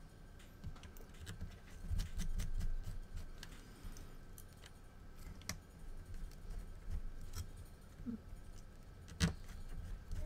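Small scattered clicks and taps of a precision screwdriver and small tools as a screw is driven down on an iPad board, with soft handling bumps about two seconds in and a sharper click near the end.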